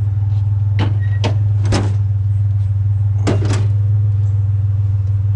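Vehicle engine idling steadily with a low hum, while a few sharp knocks and clanks of metal being handled sound over it, two near the start, two close together in the middle.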